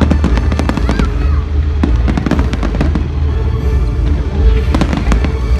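Fireworks display: a rapid series of sharp crackles and pops in clusters, over a steady deep low rumble, with music playing underneath.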